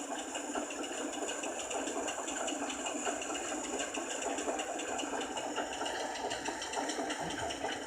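A small motor running with a steady whir and several steady high tones.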